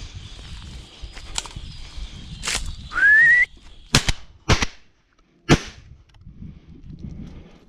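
A short, loud rising whistle, then three sharp gunshot cracks in quick succession as the hunters fire at blackbirds.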